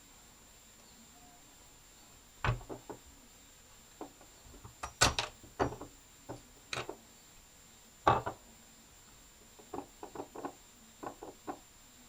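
Irregular knocks and clicks of hard parts and tools being handled and set down on a work surface, loudest about five and eight seconds in, with a quick run of lighter taps near the end.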